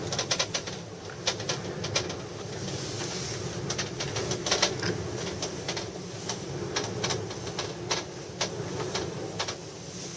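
Gondola cabin creaking and clicking irregularly as it sways in strong wind, over a steady low rumble.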